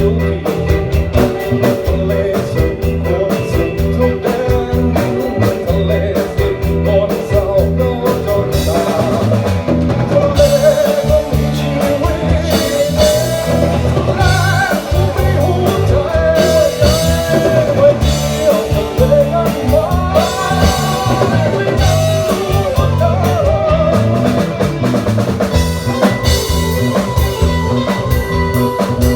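Band music with a steady drum-kit beat and guitar. From about ten seconds in to near the end, a sliding melody line, singing or a lead instrument, rides over it.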